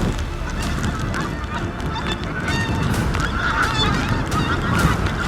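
A flock of pink-footed geese calling, many short high honks overlapping, with wind buffeting the microphone.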